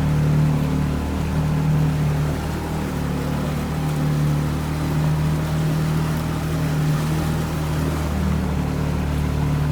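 Boat motor running steadily with a low, even drone.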